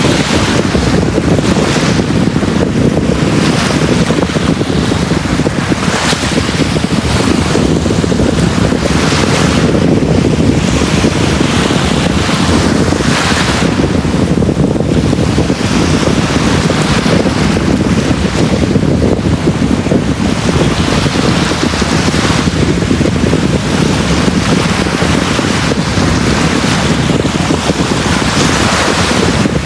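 Sea waves breaking and washing on a beach, a steady surf with swells every few seconds.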